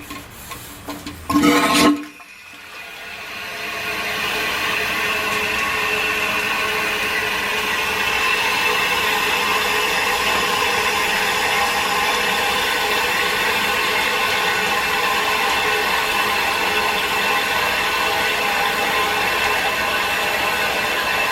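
Line shaft and belted machinery driven by a stationary steam engine, running steadily. It fades in after a short stretch of music ends about two seconds in.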